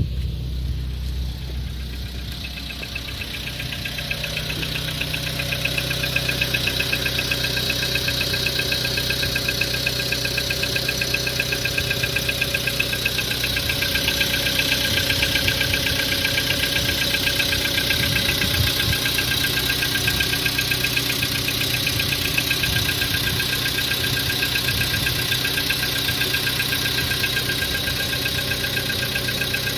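Volkswagen Jetta engine running with a fast, even knock in time with the engine. It grows louder over the first few seconds, then holds steady.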